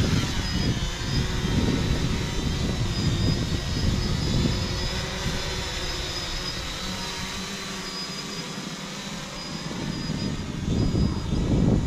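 UpAirOne 2K quadcopter drone in flight, its motors and propellers whining steadily at several pitches. There is a low rumble underneath that fades around the middle and grows louder again near the end.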